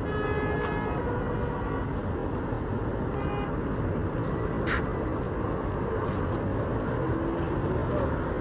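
Steady road traffic: cars and trucks running past on a busy road, with a brief high-pitched tone near the start.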